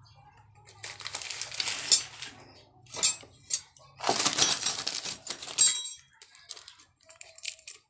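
Handling noises from working on an engine on the bench: two longer bursts of rattling and scraping with a short one between, then a few light clicks near the end.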